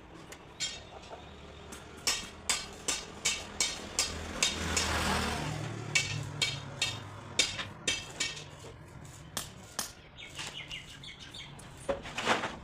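Repeated hammer strikes on wood, sharp and irregular at about two to three a second, with a brief swell of rushing noise about five seconds in and a last cluster of knocks near the end.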